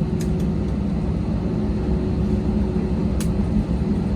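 Airliner cabin noise after landing: a steady low rumble of engines and air conditioning with a faint constant hum. Two light clicks come through it, one just after the start and one near the end.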